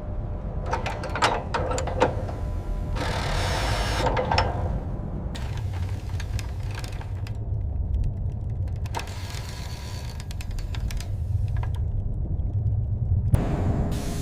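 Machinery sounds: a steady low rumble with irregular mechanical clicks and clanks and a few short bursts of hiss.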